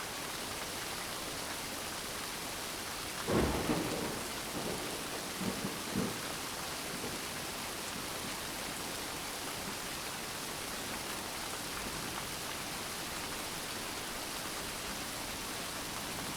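Steady rain, with a low rumble of thunder about three seconds in and a couple of fainter rumbles soon after.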